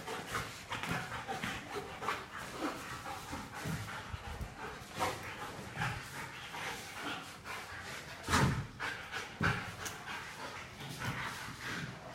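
A dog making a string of short, irregular sounds, the loudest two sharp ones about eight and nine and a half seconds in.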